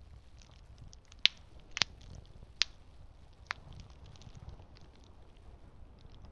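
Campfire burning with a soft low rumble and faint steady crackle, broken by four sharp pops of burning wood between about one and three and a half seconds in.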